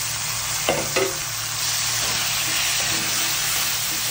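Chopped tomatoes sizzling in hot oil in a pan of fried onions and spices, just after being added to the masala. A spatula stirs them, knocking the pan twice about a second in, then a steady sizzle.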